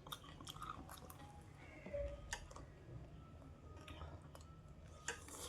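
A person chewing jhal muri, a crunchy spiced puffed-rice snack, close to the microphone, with scattered soft crunches and mouth clicks.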